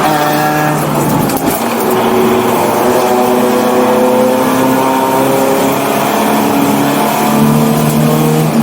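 1984 BMW 318i's four-cylinder engine running hard on track. A gear change about a second and a half in, then the revs climb steadily for several seconds.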